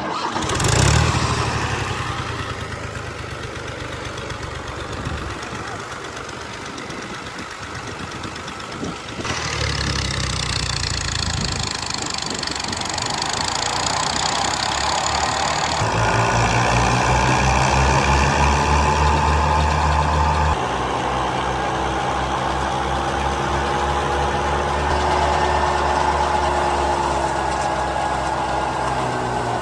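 Combine harvester's diesel engine and machinery running steadily. The sound changes abruptly about nine and sixteen seconds in, and in the second half a steady engine drone is clearest.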